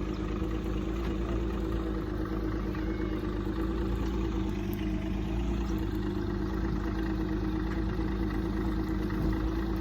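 Fishing boat's engine idling steadily, with an even, unchanging hum.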